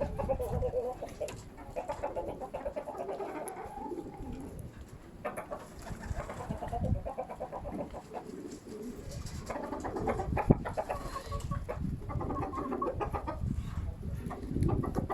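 Domestic birds calling in quick pulsed runs, cooing and clucking, over a steady low rumble of strong wind on the microphone.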